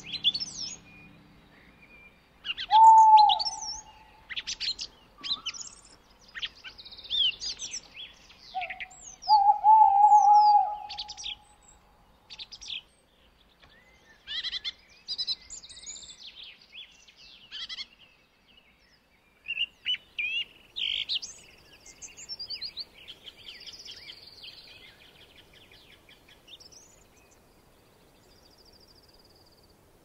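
Several wild birds calling in pine forest: many short, high chirps, sweeps and trills from more than one species. Two louder, lower calls, each lasting about a second, come about three seconds in and again around ten seconds in. The calls thin out near the end.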